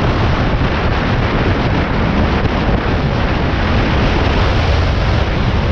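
A vehicle engine, most likely a motorcycle on its stock exhaust, running steadily with the even, quiet note riders call a 'sewing machine' sound. Wind buffets the microphone throughout.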